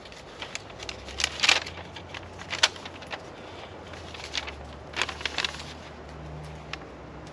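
Handling noise: a run of irregular clicks, taps and crinkly rustles, loudest about one and a half seconds in, over a faint steady low hum.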